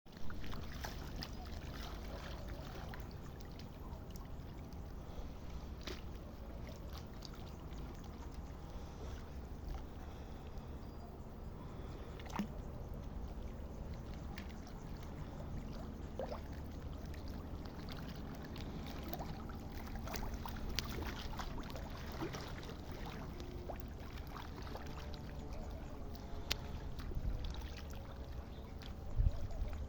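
Water sloshing and splashing as an ostrich swims, over a steady low rumble, with scattered small clicks.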